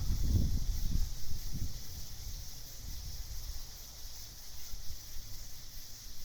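Night ambience: a steady, high chorus of night insects, with a gusty low wind rumble that is strongest in the first second or two and then dies down.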